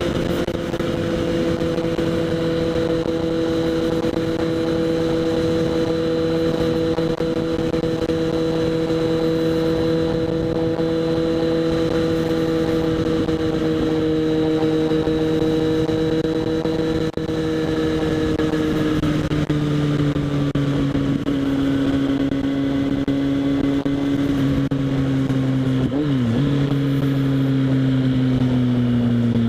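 Kawasaki Z800 inline-four engine through a LeoVince SBK aftermarket exhaust, cruising at steady revs, heard from a helmet chin-mounted microphone. After about seventeen seconds the pitch slowly falls as the revs drop.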